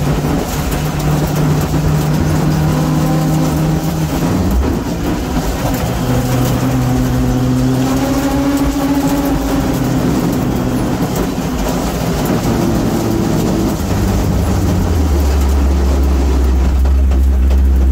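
Rally car engine heard from inside the cabin while driving on a gravel road, with gravel and road noise; the revs rise and fall several times, then settle into a low, steady note near the end.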